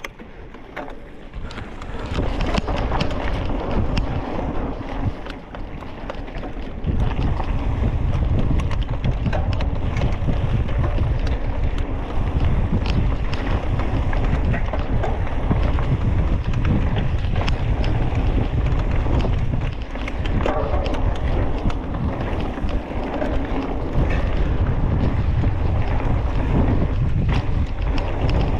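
Wind buffeting the microphone while riding a bike: a heavy low rumble that builds over the first few seconds, then stays loud and steady.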